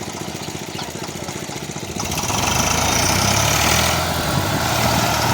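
Tractor engine running at a steady low throttle, then revved up and held at higher power about two seconds in.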